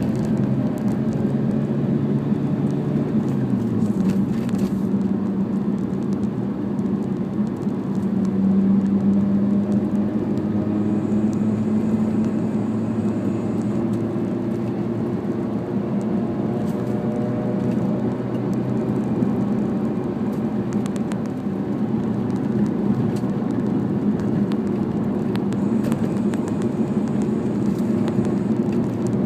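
Mazda RX-8's two-rotor rotary engine running through an RE Amemiya Ultimate Silent aftermarket muffler, heard from inside the cabin while driving. It is a steady, low exhaust and engine drone with road noise underneath. The engine note shifts in the first few seconds and then mostly holds.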